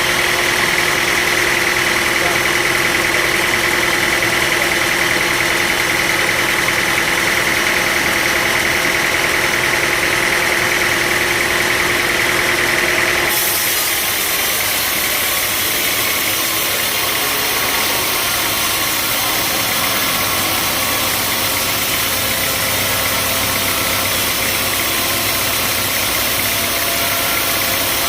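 Sawmill machinery running steadily: a constant mechanical drone with a steady high whine. About halfway through the sound changes abruptly, the whine dropping away while the machine noise carries on.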